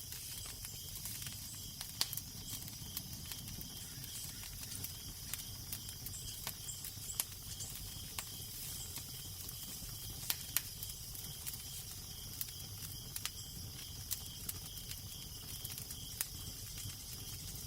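Crackling fire: a steady hiss with frequent sharp pops and snaps at irregular intervals, over a low, even rumble of wind.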